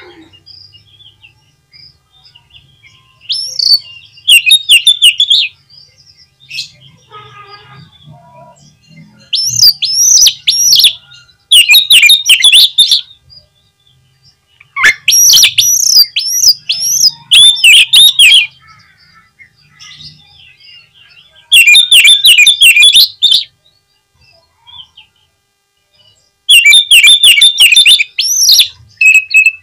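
Oriental magpie-robin (kacer) singing loudly in five bouts of rapid, high, varied notes, each lasting a few seconds with short pauses between.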